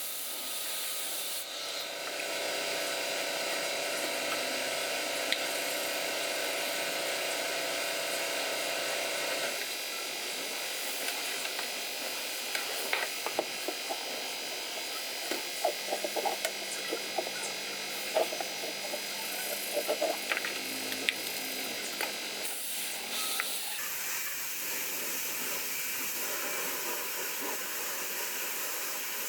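Steady hissing spray, with scattered sharp clicks and knocks in the middle.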